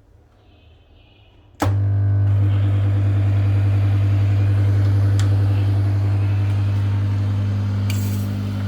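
Steam cleaner switching on about a second and a half in, then running with a loud, steady low buzzing hum and a hiss.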